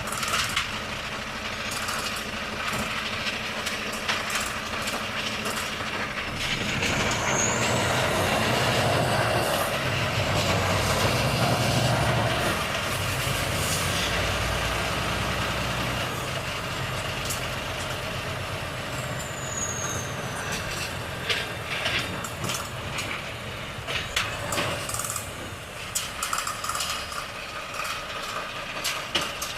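Volvo FH truck engine running while driving, growing louder and heavier for several seconds partway through, then easing off. Toward the end come repeated short hisses and clicks, typical of the truck's air brakes.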